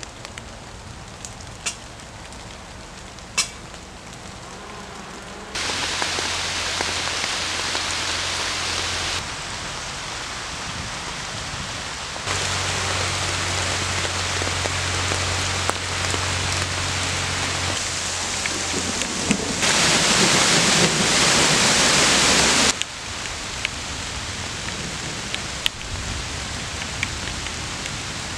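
Rain falling steadily on leaves and grass as an even hiss. It jumps abruptly louder about five seconds in and changes level in sudden steps several more times, heaviest about two-thirds of the way through. Before the first jump the hiss is quieter, with a few sharp clicks.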